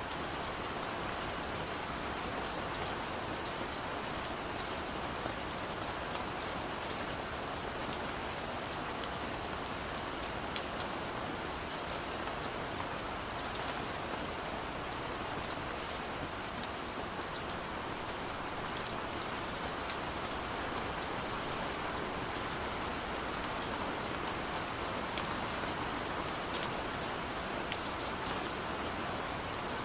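Gentle steady rain, an even hiss with scattered sharper drips of individual drops.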